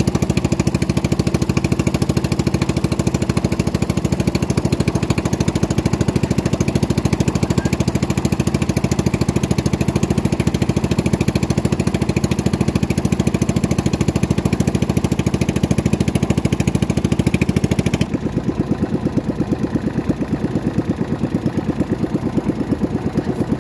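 Motorboat engine running steadily. About three quarters of the way through it drops to a quieter, rougher running.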